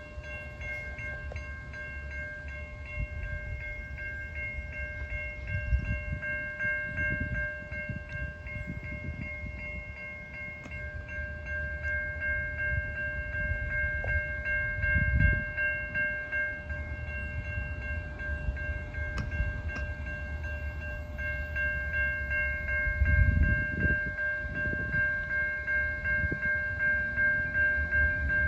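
A passing train: a low rumble that swells and fades several times, with a steady high ringing tone running over it.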